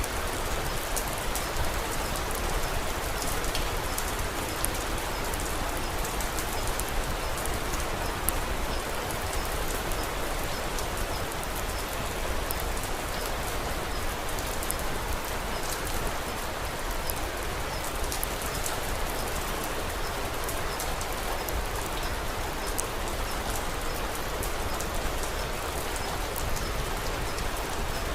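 Steady rain falling on a surface, an even hiss with many small, sharp ticks of drops scattered through it.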